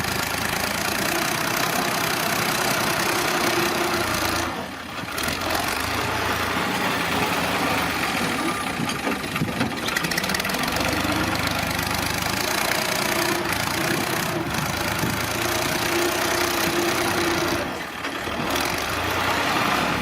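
Tractor engine running steadily, with two short dips in level, about five seconds in and near the end.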